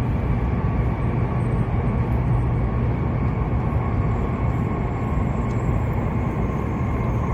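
E7-series Shinkansen running at speed, heard from inside the passenger cabin: a steady low rumble with a faint steady whine above it.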